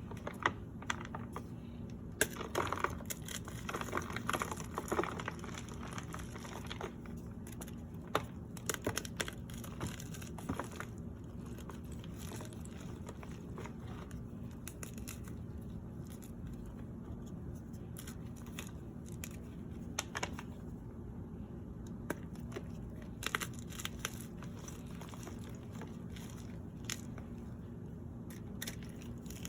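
Baked cornstarch topped with cornstarch paste being crushed and crumbled by hand: irregular crackling and crunching, busiest for the first several seconds and again briefly past the middle, with sparser crackles between.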